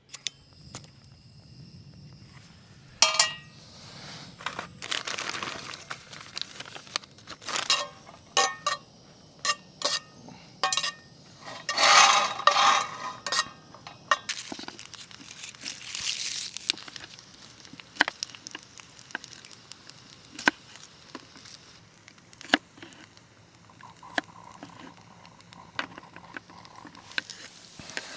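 Camp cookware and utensils being handled: a run of irregular clinks and knocks, with a short ringing clink about three seconds in and a burst of clattering near the middle.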